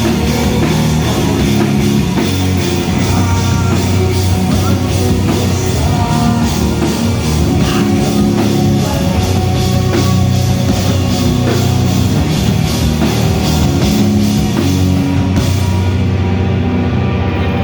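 Live rock band playing loud, with distorted guitars, bass and a steady drum-kit beat. About fifteen seconds in, the drums and cymbals stop and the guitars are left ringing.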